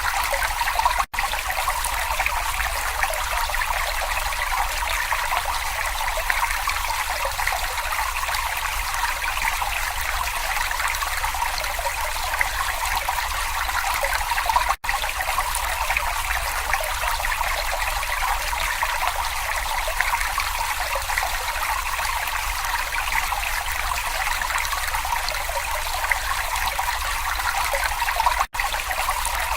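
Water in a small brook babbling and trickling steadily over stones. The sound cuts out for an instant three times.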